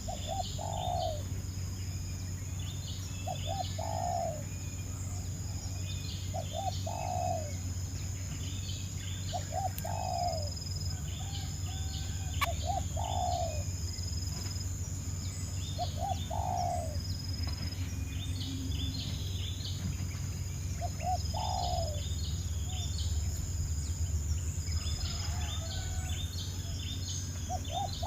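Wild birds calling: a low cooing call with a falling note, repeated every few seconds, over scattered high chirps and a steady high-pitched whine.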